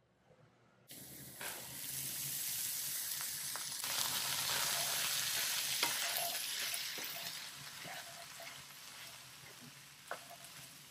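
Cut long beans and ground beef sizzling in a hot stainless-steel wok as they are stir-fried with a wooden spatula, with a few knocks of the spatula against the pan. The sizzle starts suddenly about a second in, is loudest in the middle and dies down toward the end.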